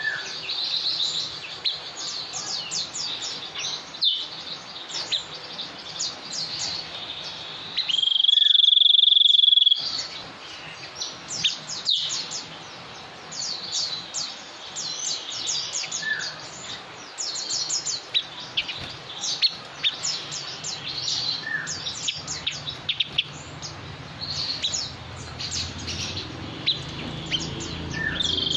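Birds chirping in many short, quick high-pitched calls, with one loud, steady, high whistle held for about two seconds, about eight seconds in.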